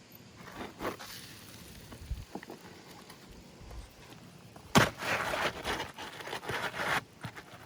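Roofing tool working nails up out of worn asphalt shingles: light scattered clicks, then a sharp knock about five seconds in followed by about two seconds of rough scraping.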